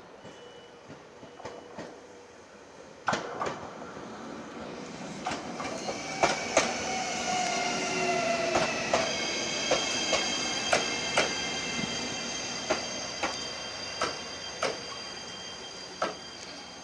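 JR Shikoku 7200 series local train rolling slowly past, its wheels clicking over rail joints at a gradually slowing beat. From about six seconds in, a steady high-pitched whine sounds as the train slows.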